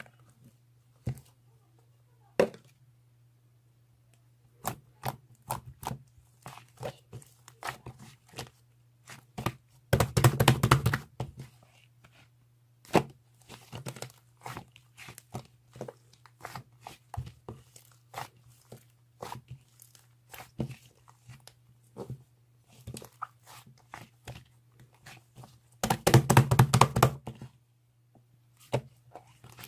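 Handling sounds: scattered taps and clicks, with two louder rustling bursts, one about ten seconds in and one near the end, over a steady low hum.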